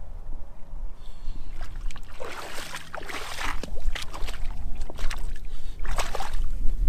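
Wind rumbling on the microphone while walking through a shallow tidal stream, with splashing and sloshing steps about two seconds in and again near the end.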